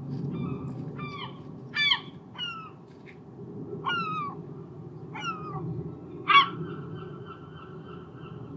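Herring gulls calling: a series of short yelping calls that fall in pitch, the loudest about six seconds in, followed by a steady held tone for about two seconds, over a low background rumble.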